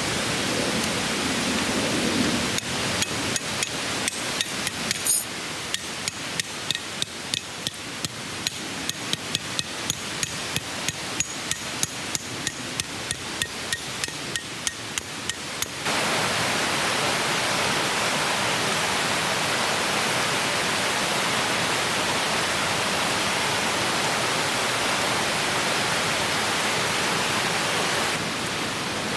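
A fast series of sharp hammer-like taps, about four a second, over a soft rushing background. About halfway through they stop abruptly and give way to the steady rush of a flowing stream.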